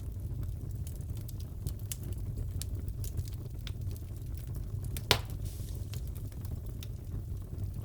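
Wood fire crackling in a fireplace, with a steady low rumble, scattered small snaps, and one louder pop about five seconds in.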